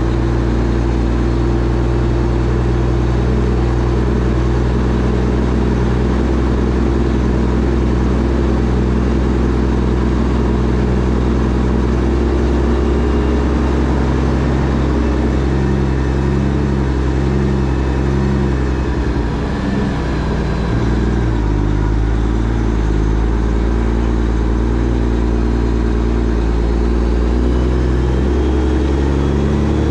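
Semi truck's straight-piped Detroit Diesel engine running steadily under way. About two-thirds of the way through, the level dips briefly and the engine pitch changes.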